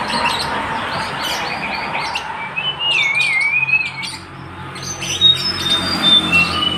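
A tledekan gunung songbird singing: quick high chirps, then a wavering warbled phrase in the middle, and a run of clear high whistled notes near the end.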